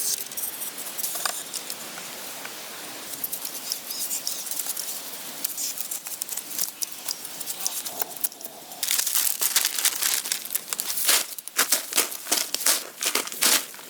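Dense rustling and crackling with many sharp clicks and snaps, growing louder and busier about two-thirds of the way through.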